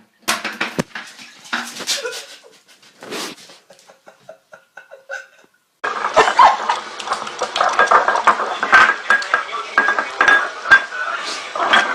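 Clattering and clinking of hard objects, a run of sharp knocks in the first half, then, after a sudden change about six seconds in, denser clatter with a voice.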